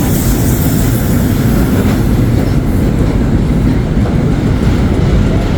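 Train running along the rails: a loud, steady rumble of wheels and car noise.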